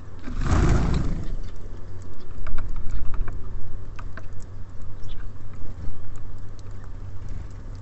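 Small birds at a feeder: irregular light tapping and clicking of beaks and feet on the feeder as they take seed, over a steady low hum. A louder rushing flutter comes about half a second in.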